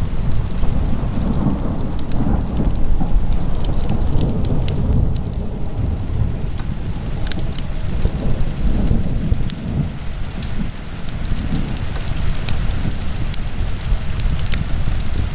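Wood fire burning in a fireplace, a steady low rushing rumble with scattered sharp crackles and pops throughout.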